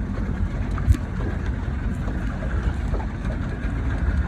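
Motorboat engine running steadily under way, a low rumble mixed with water and wind noise, with one sharp knock about a second in.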